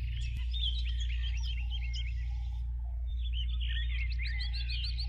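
Songbirds chirping, several short overlapping calls; from about four seconds in, one bird repeats a short rising note about four times a second. A steady low hum runs underneath.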